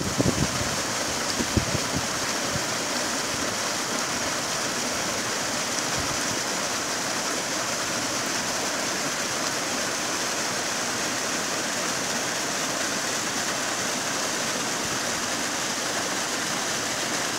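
Shallow stream running over rocks, a steady rush of water. A few soft knocks sound in the first two seconds.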